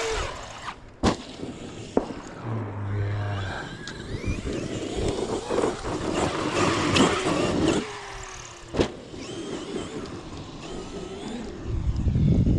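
Large electric RC monster truck running on a track: its motor whine rises and falls with the throttle. Sharp knocks come about a second in, again at two seconds, and near nine seconds.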